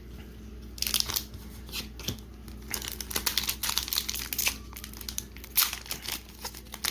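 Foil Pokémon booster pack wrapper crinkling and tearing as it is opened, a run of irregular crackles starting about a second in.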